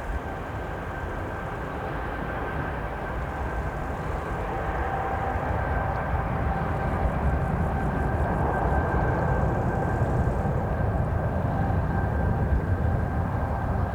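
Embraer E195-E2's Pratt & Whitney PW1900G geared turbofans running at take-off power: a deep rumble with a steady high whine, growing gradually louder.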